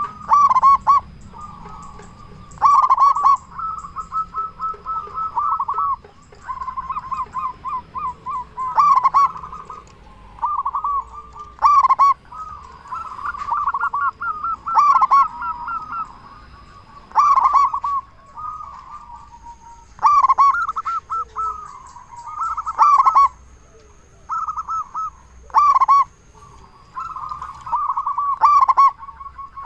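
Zebra doves (perkutut) cooing: rapid runs of short coo notes, broken every two to three seconds by louder accented coos.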